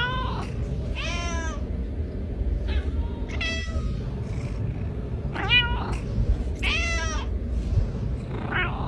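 A domestic cat meowing repeatedly, about six short meows a second or so apart, over a steady low rumble.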